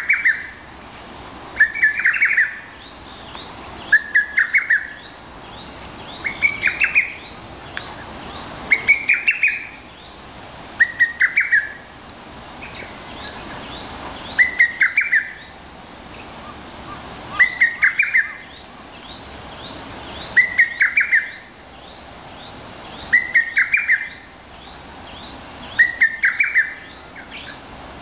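Lesser cuckoo (hototogisu) calling its sharp phrase of four or five quick notes, repeated every two to three seconds over a faint steady hiss.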